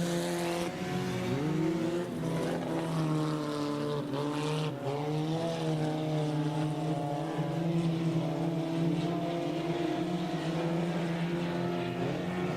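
Several junk race cars' engines running together around the oval, a steady drone with pitch rising and falling as the cars shift and change speed.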